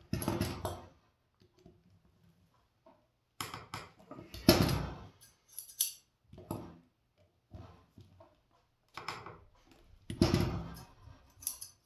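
Freshly sharpened scissors being opened and closed, the steel blades scraping along each other in about seven separate strokes with pauses between, the longest about halfway through; the closing cuts take off the burr left by sharpening.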